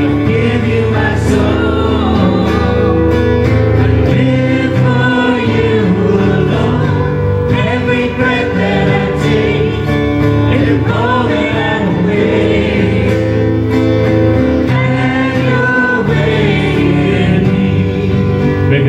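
Christian worship music: voices singing over instrumental accompaniment with guitar.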